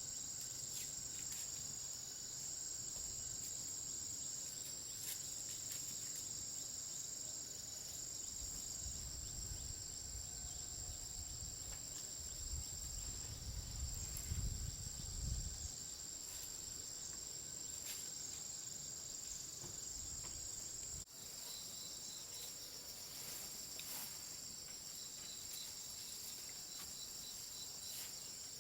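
Steady, high-pitched insect chorus trilling without a break. A low rumble swells briefly around the middle.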